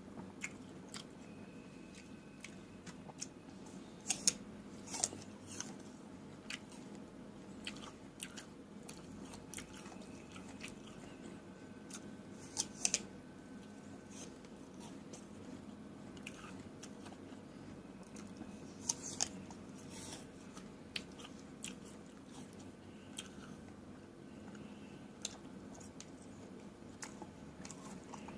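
Close-up sounds of eating fresh fruit: wet chewing and crisp bites, with a few louder crunches spread through.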